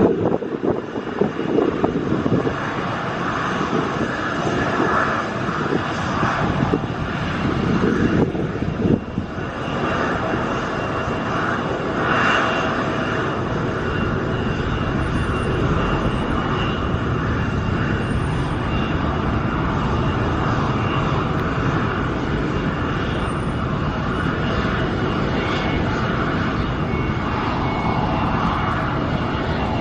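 Airliner engines heard from near the runway, a steady noise that holds through most of the stretch, with gusts of strong wind buffeting the microphone over roughly the first ten seconds.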